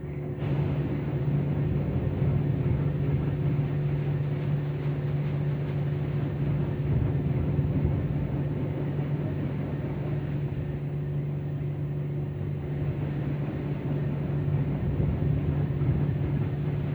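Tammermatic T700 rollover car wash machine running, heard from inside the car: a steady low hum over an even rushing noise that comes in sharply at the start.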